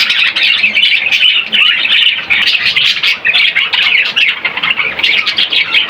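Budgerigars chattering continuously in a dense, rapid twitter of chirps and squawks.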